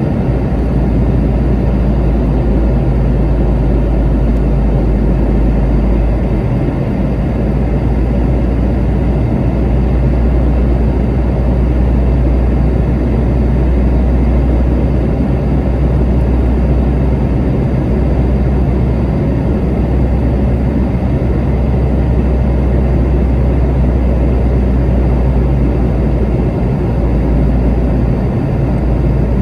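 Steady cabin noise inside a Boeing 717 airliner on approach: the drone of its two rear-mounted Rolls-Royce BR715 turbofans and the rush of air over the fuselage, with a strong low rumble.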